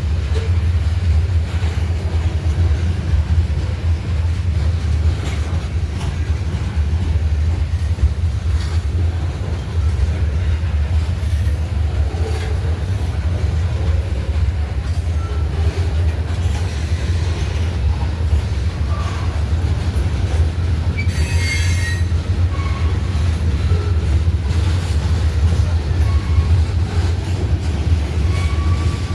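Freight train cars rolling past with a steady low rumble. Short, faint wheel squeals come through now and then, with a louder squeal about three quarters of the way through.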